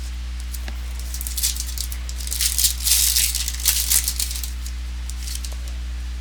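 Trading cards and their packaging being handled: a run of crisp crinkling and clicking, busiest around the middle, over a steady low electrical hum.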